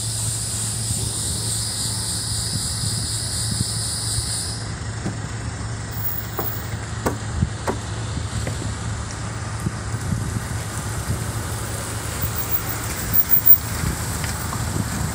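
A vehicle engine running steadily, heard from inside the vehicle in slow street traffic, with a few short knocks and clicks, a cluster of them near the end.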